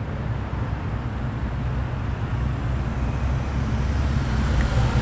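Car engine rumbling at low revs as the car drives past, getting slightly louder toward the end.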